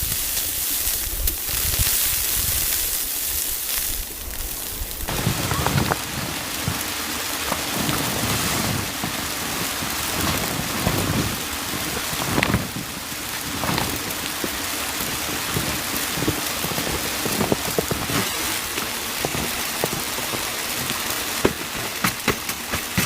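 Steady hiss and patter of falling precipitation on a surface, like rain, with scattered sharp taps throughout and a low rumble during the first few seconds.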